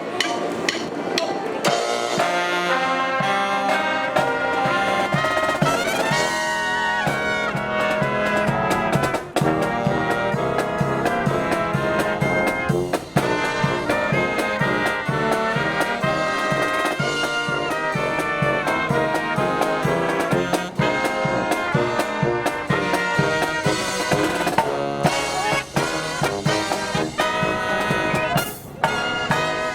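A marching brass band plays a medley of Disney tunes, with trumpets, trombones and drums keeping a steady beat. Heavy wind noise buffets the microphone.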